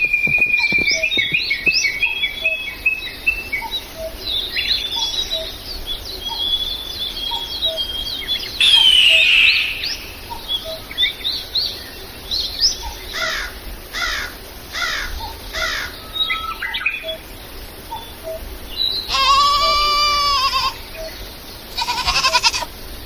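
Small birds chirping and calling over and over, with quick downward-sweeping notes in series through the middle. About three-quarters of the way through comes one long, high bleat, with more bleating near the end.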